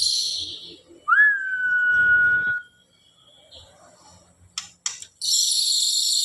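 Caged songbird singing: a dense, high-pitched chatter that breaks off, then a single clear whistled note that swoops up and holds steady for about a second and a half. Near the end, two sharp clicks come just before the chatter starts again.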